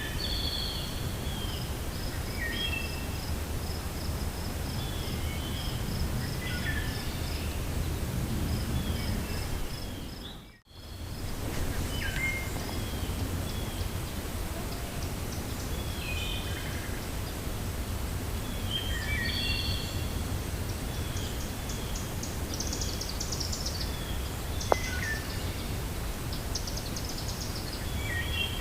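Wind rushing steadily through a forest while several songbirds chirp and call. Early on, a fast string of even, high-pitched notes runs for several seconds. The sound fades out briefly and back about ten seconds in, and there is one sharp click about three-quarters of the way through.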